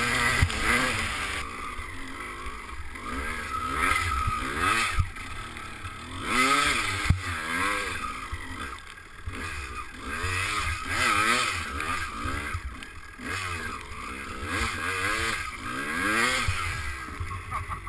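Two-stroke 250cc motocross bike engine revving up and falling back again and again as it is ridden, its pitch rising and dropping every second or so, over a steady rushing noise.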